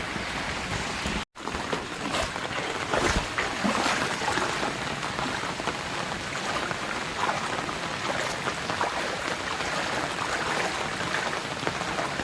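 Steady rain falling, mixed with the rush of flowing floodwater. The sound cuts out for an instant about a second in.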